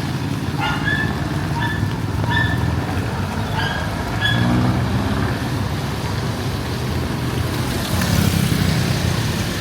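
Street traffic: vehicle engines running steadily under a haze of road noise, with a run of short, high-pitched beeps in the first half.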